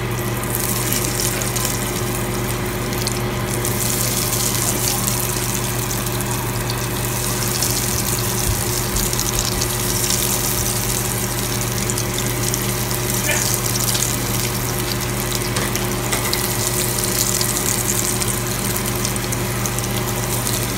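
Breaded chicken strips sizzling in shallow oil in a frying pan: a steady crackling hiss over a low hum.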